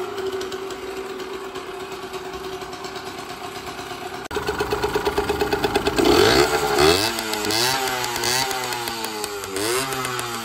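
Yamaha GT50's 49cc two-stroke single-cylinder engine idling, then revved in several quick throttle blips from about six seconds in, its pitch rising and falling with each blip.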